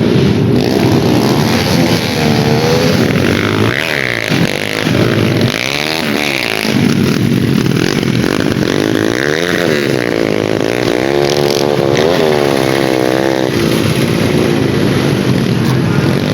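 Racing dirt-bike engines revving hard, their pitch repeatedly climbing and dropping as the bikes accelerate and shift through the autocross track, one rise and fall after another.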